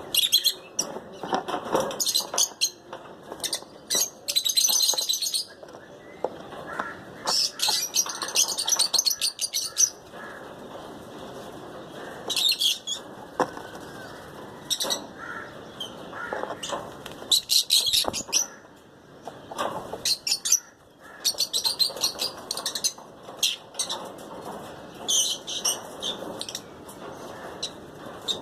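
Lutino lovebirds chattering in repeated bursts of rapid, high-pitched chirps, with short pauses between bursts.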